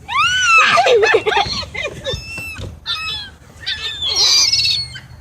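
A crowd of seagulls calling over one another: shrill cries that rise and fall in pitch, overlapping throughout, loudest at the start and again about four seconds in.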